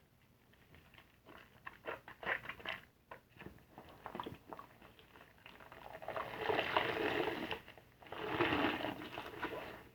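Soapy car-wash sponge being worked into a lather: wet crackling and squishing, with two longer, louder squelches in the second half.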